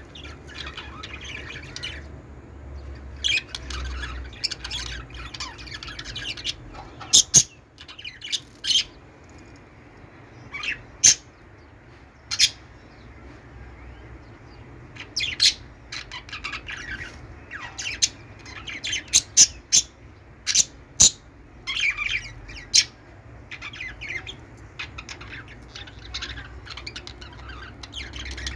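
Budgies (budgerigars) chattering continuously, with loud, sharp chirps and squawks breaking in every few seconds.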